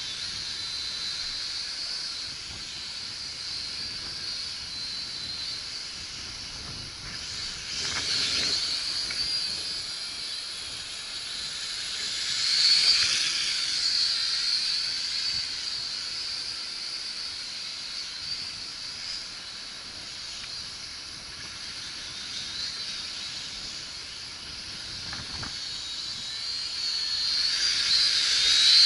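Syma X5C quadcopter's small brushed motors and propellers whining in flight, a steady high buzz that swells louder a few times, most strongly near the end.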